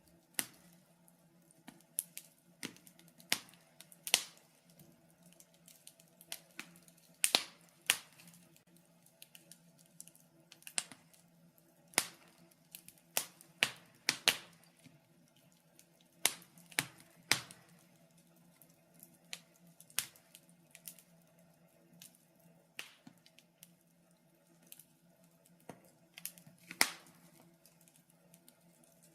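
Wood fire crackling in a fireplace: irregular sharp pops and snaps, roughly one a second, some louder than others.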